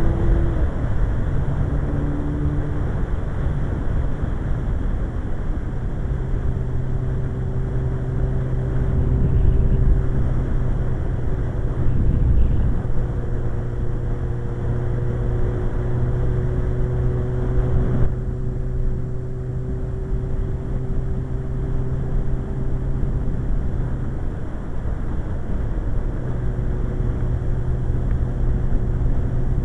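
Suzuki GSX-R1100 inline-four motorcycle engine cruising at a steady engine speed, under loud wind rush on the microphone.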